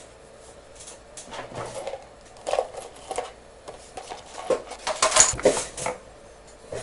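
Irregular light clicks, taps and scrapes of small tools and objects being handled, busiest about five seconds in, over a faint steady hum.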